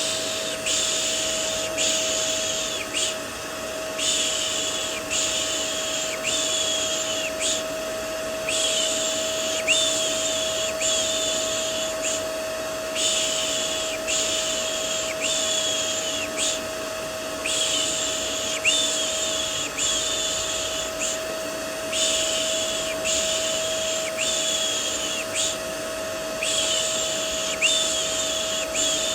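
A person's rhythmic 'shh' shushing for soothing a baby to sleep, about one hiss a second in runs of three or four with short pauses. Underneath, a vacuum cleaner runs steadily as white noise, with a constant motor hum.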